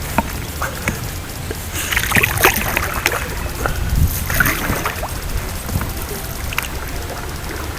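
Canoe paddling: irregular paddle splashes and knocks against the folding canoe's hull, heaviest about two and four seconds in, over a steady low rumble.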